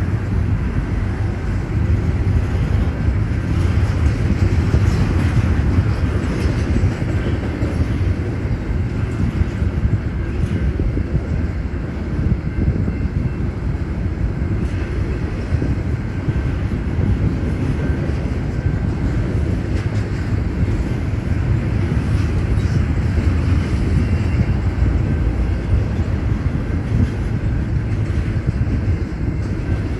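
Intermodal container freight train rolling past: a steady rumble of railcar wheels on the rails, with faint wheel squeal.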